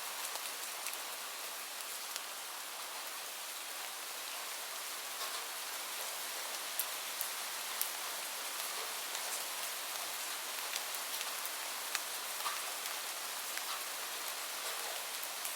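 Steady rain falling, a dense hiss with scattered sharp drops ticking on a surface.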